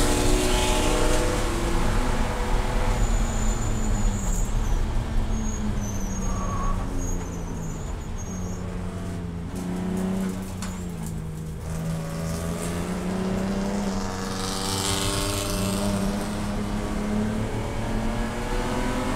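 Race car engine running hard on track, its pitch falling and climbing again as it lifts, shifts and accelerates between corners.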